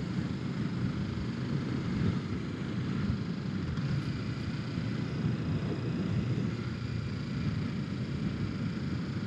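Kawasaki Ninja 650's parallel-twin engine running steadily while riding, with a rush of wind and road noise at the helmet microphone.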